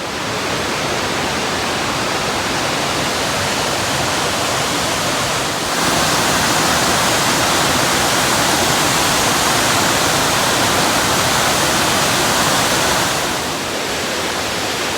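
Steady rushing of a large waterfall, with water crashing down onto rocks. It grows louder about six seconds in and eases back a little near the end.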